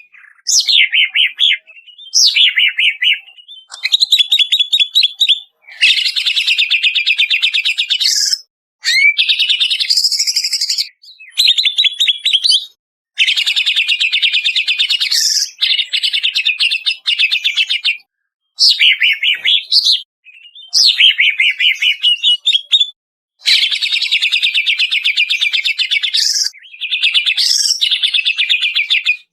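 Cucak ijo (green leafbird) singing: a string of loud, varied phrases of fast rattling trills and gliding whistles, each one to three seconds long, broken by short gaps.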